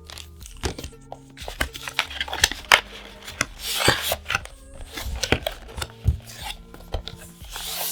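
Trading cards and their foil booster wrapper being handled: a run of sharp clicks and taps with papery swishes about four seconds in and near the end, over soft background music.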